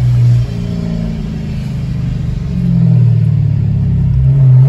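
Dodge Scat Pack's 6.4-litre HEMI V8 heard from inside the car, revving under throttle: a loud burst right at the start, then the engine note climbs in pitch and gets louder through the second half.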